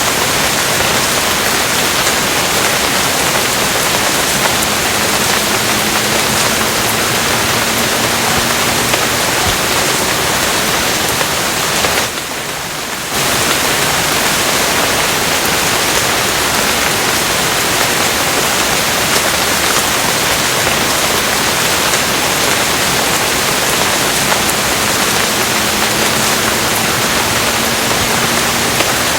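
Steady, dense rain noise, an even hiss with no single drops standing out; it dips briefly for about a second near the middle, then returns.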